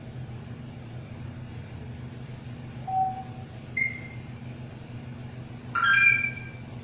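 Pet bird making three short calls: a brief low note about three seconds in, a short high whistle a second later, and a louder call with several pitches near the end, over a steady low hum.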